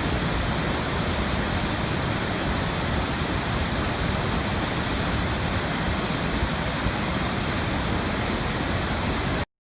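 Waterfall: a steady, even rush of falling water that starts and cuts off abruptly.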